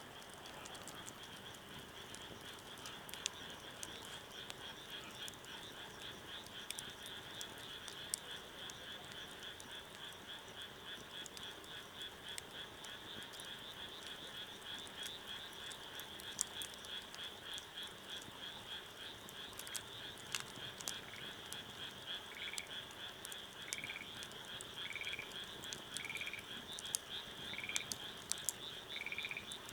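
A chorus of frogs making a steady, fast-pulsing trill, with sharp snaps of a crackling wood campfire scattered through it. The snaps grow more frequent near the end. About two-thirds of the way in, a short rising call starts repeating roughly once a second.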